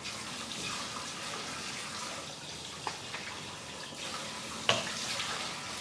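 Water running from a tap into a sink, a steady hiss, with two short knocks, the louder one about three-quarters of the way through.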